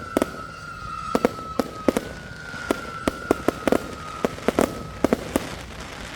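Backyard consumer fireworks going off: a quick, irregular run of sharp bangs, with a long whistle falling slightly in pitch through it, heard twice, the second starting about two seconds in and ending about five seconds in.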